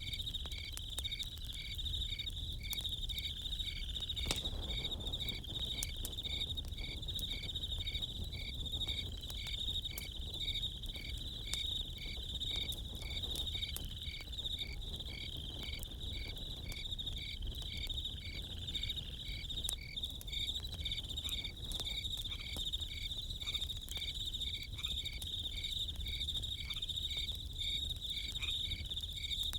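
Crickets chirping: a continuous high trill with a second, evenly pulsed chirp beneath it. Scattered sharp crackles of a campfire are mixed in, over a low rumble.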